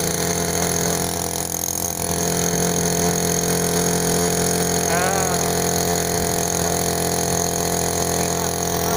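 Matsumoto MOB-830 3 hp two-stroke, air-cooled outboard motor running steadily under way, with a slight rise in level about two to three seconds in.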